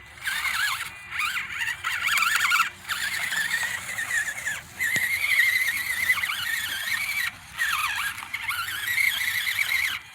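1/24-scale Enduro24 Sendero RC crawler's small electric motor and gears whining under throttle. The high whine rises and falls in pitch in several runs, with brief pauses between them as it tries a climb.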